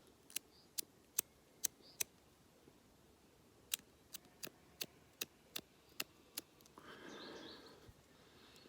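Clipper lighter clicking repeatedly as it is struck to light: sharp single clicks about two or three a second, a run of five and then, after a pause, a run of about eight. A short, soft rush of breathy noise follows near the end.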